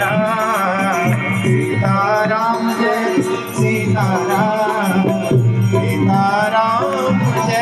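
Indian devotional music: a wavering, ornamented melody over steady low notes, with hand-drum and rattle percussion.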